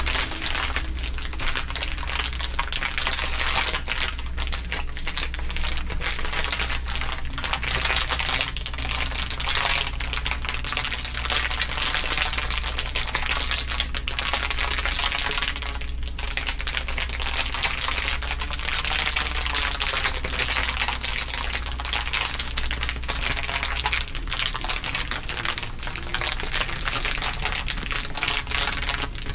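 Several layers of crinkling played over one another, a dense, continuous crackle of many tiny clicks, over a steady low hum.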